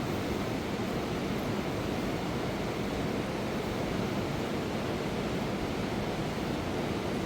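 Fast mountain river rushing over rocks: a steady, even roar of water with no breaks.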